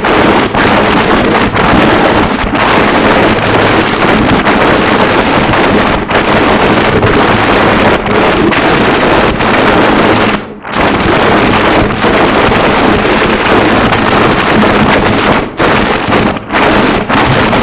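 Harsh noise wall: a dense, loud, unbroken roar of distorted static filling every pitch, with a few brief dropouts, the deepest about ten and a half seconds in.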